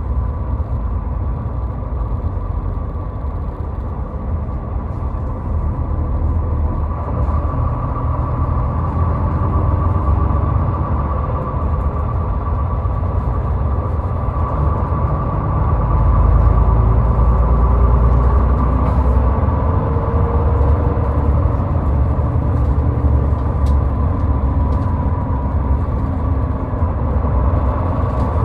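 Steady road noise of a car driving on a highway: a continuous low rumble with a faint steady hum, getting louder a little past the middle.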